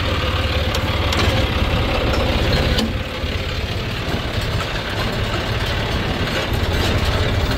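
Tractor engine running steadily at a low idle.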